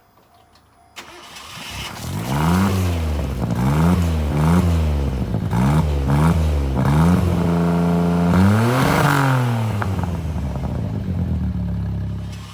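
Suzuki JA11 Jimny's three-cylinder turbo engine breathing through a Wills Win aftermarket muffler, catching about a second in and then blipped repeatedly in quick revs. It is held at higher revs for about a second, revved once more, and drops back to a steady idle near the end.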